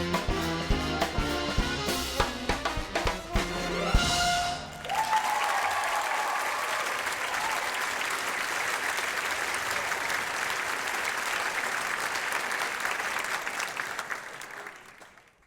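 A band with brass and drum kit plays the last bars of a jazz show number, ending on a final hit about four seconds in. Audience applause follows and fades out near the end.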